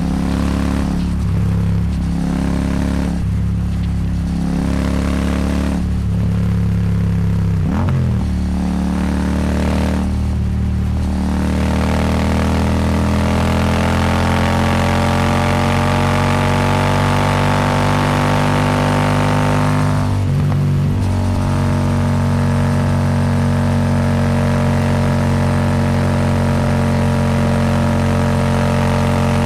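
Royal Enfield Super Meteor 650's 648 cc parallel-twin engine running under load through a Rhino Racing slip-on exhaust, with wind rushing past. The engine note climbs steadily from about a third of the way in, dips briefly past the middle, then holds a steady pitch.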